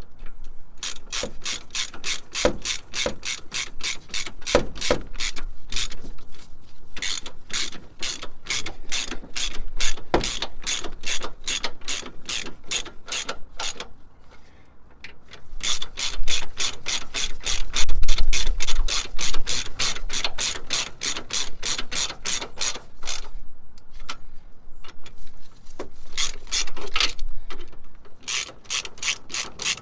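Hand ratchet clicking in long runs, about three or four clicks a second, as the steering box mounting bolts are wound in. It stops briefly a few times between runs.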